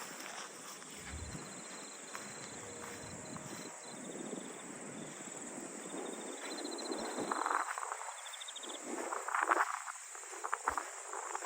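Insects chirping in short, fast trills over a steady high-pitched buzz, with footsteps on a path in the second half.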